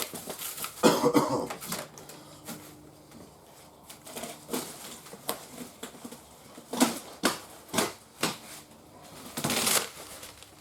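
Packaging being handled as new tires are unwrapped: scattered rustling and crinkling with irregular clicks and a few sharp knocks.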